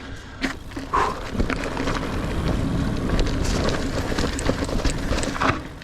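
Niner Air 9 RDO 29er mountain bike being ridden over dirt singletrack: a steady rush of tyre noise with many small clicks and rattles from the bike, and wind on the microphone.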